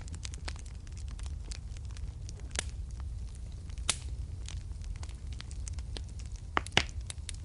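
Fireplace fire crackling: a steady run of small pops and snaps over a low rumble, with louder pops about four seconds in and twice near the end.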